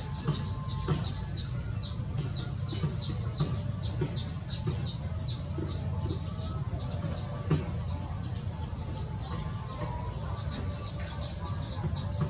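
Small birds chirping rapidly and continuously, many short high falling chirps a second, over a steady low hum.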